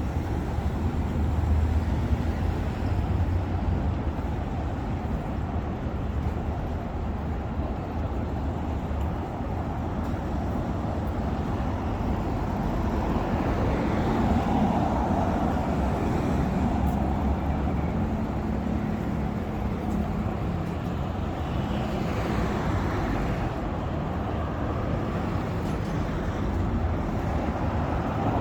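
Steady road traffic, with cars and other vehicles passing and swelling in and out.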